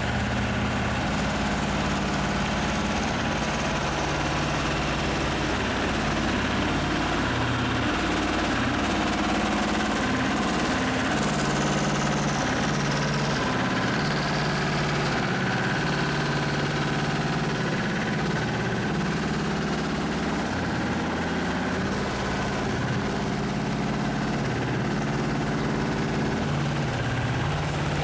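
Heavy diesel engine running steadily, its pitch shifting up and down a few times.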